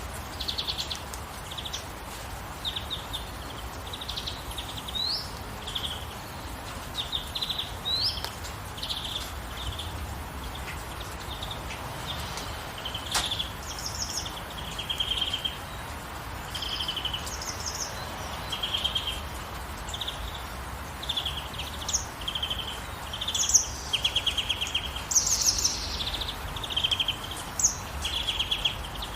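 Songbirds chirping and trilling in many short, rapid phrases, growing busier toward the end, over a steady hiss of gentle rainfall.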